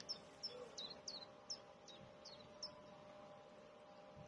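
A small bird chirping in a quick series of short, high notes that slide down in pitch, about eight of them over the first two and a half seconds, then stopping. Under them runs a faint steady hum.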